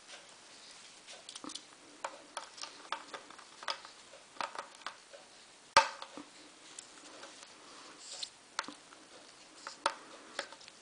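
Caique parrot biting and chewing at a broom: irregular sharp clicks and crunches, with one louder snap about six seconds in.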